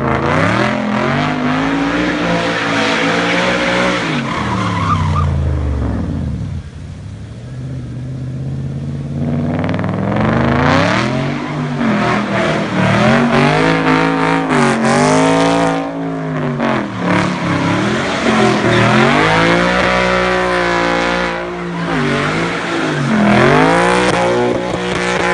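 Audi S6 C5's 4.2-litre V8 revving up and down again and again under hard driving, with tyres skidding. It drops to a lower, quieter run for a few seconds about a quarter of the way in, then climbs and falls in repeated revs.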